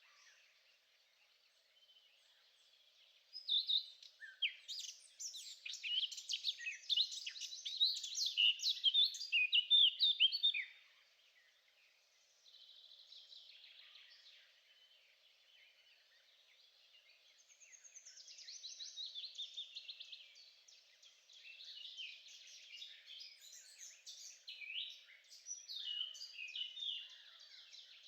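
Songbirds singing, with rapid, varied twittering phrases. The song is loudest from about four to eleven seconds in, drops away, and picks up again after about eighteen seconds.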